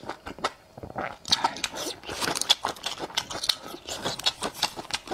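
Close-miked crunching and chewing of crisp pickled Laba garlic cloves (garlic cured green in vinegar), with many sharp irregular crunches.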